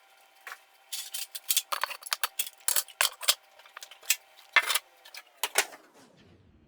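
Hard kitchen items being handled, clattering and clinking: a quick irregular run of sharp knocks and clinks that stops about six seconds in.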